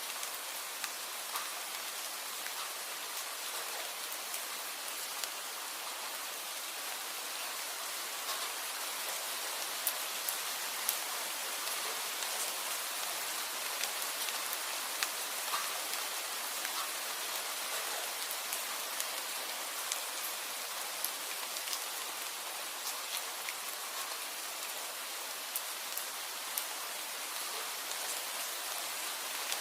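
Steady rain falling, with individual drops tapping sharply on a surface every second or so.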